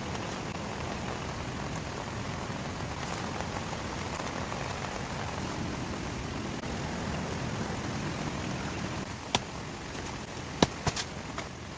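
Steady rain falling, with a few sharp clicks about nine seconds in and near the end.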